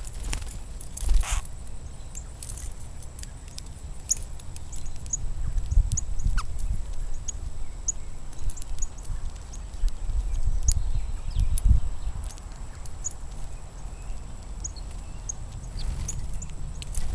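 Small birds at a feeder giving short, high chips scattered irregularly through the whole stretch, over a low, uneven rumble.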